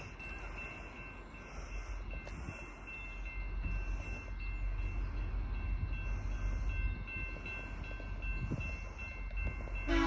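VIA Rail passenger train approaching, a low rumble that grows louder from about three seconds in. Its horn starts right at the very end.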